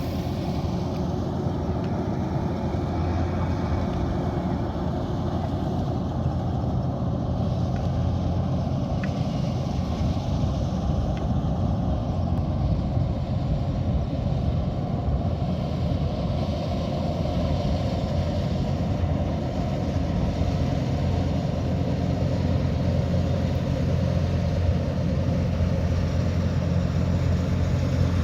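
Kubota DC108X combine harvester running steadily, a continuous mechanical drone of its diesel engine and machinery.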